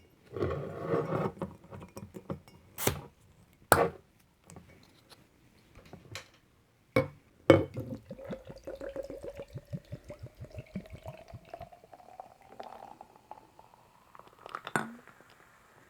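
A few sharp clicks and knocks, then a sparkling drink poured from a bottle into a glass for about seven seconds, gurgling in quick pulses with a pitch that rises steadily as the glass fills. One more knock comes near the end.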